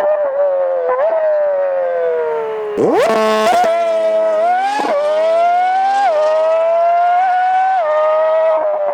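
Porsche 911 GT3 (991.1) 3.8-litre naturally aspirated flat-six exhaust, played back sped up so it wails high-pitched. It revs up sharply about three seconds in, then climbs and drops back at each upshift, three times in the second half.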